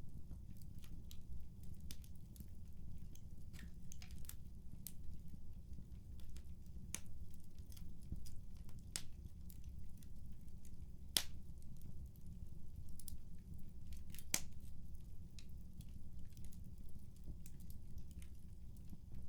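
Wood fire in a fireplace crackling: irregular sharp snaps and pops over a steady low rumble, with two louder pops about midway.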